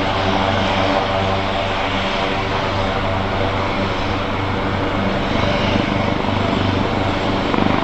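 AgustaWestland AW139 helicopter running steadily, its two Pratt & Whitney Canada PT6C turboshaft engines whining and its five-bladed main rotor beating.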